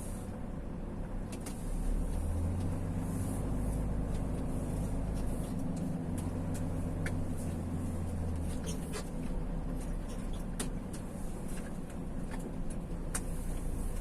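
Road vehicle being driven, a steady low engine and road drone that swells between about two and nine seconds in, with scattered light ticks over it.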